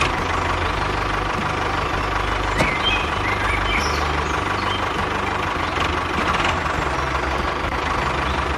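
A motor or engine running steadily, with a pulsing low rumble and a steady whine, and a few faint high chirps about three seconds in.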